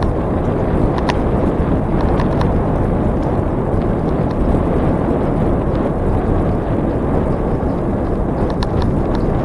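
Steady rushing wind on the microphone of a bicycle ride camera while riding, with a few light clicks and rattles.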